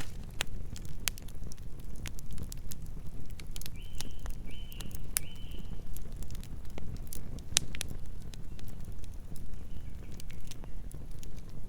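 Wood fire burning, with a low rumble under frequent sharp crackles and pops from the logs. Three short high-pitched chirps come in quick succession about four seconds in.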